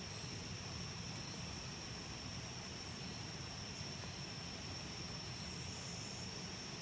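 Steady high-pitched insect drone from crickets or cicadas over a low, even outdoor rumble.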